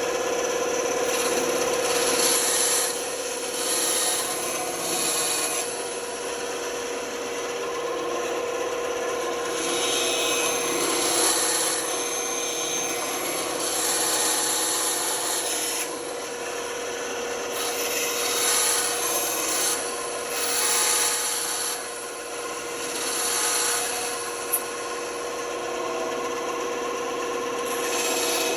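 Band saw running with a steady hum, its blade cutting through wood in passes that swell and ease off every second or two as the piece is fed and turned.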